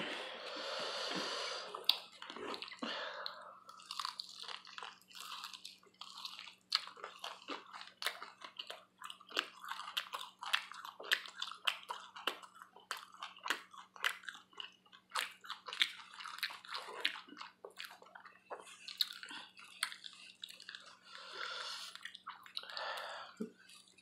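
Chewing and biting on buffalo wings close to the microphone: many irregular wet mouth clicks and smacks, with a few longer noisy breaths near the start and near the end.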